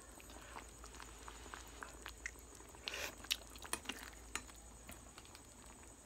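Faint mouth sounds of someone tasting and chewing food close to the microphone: scattered small clicks and smacks, with a short breathy noise about three seconds in.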